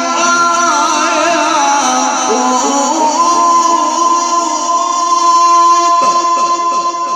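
Male Quran reciter in tajwid style, holding a long melismatic note with wavering, ornamented pitch that settles into a steady held tone, amplified through a sound system with heavy echo.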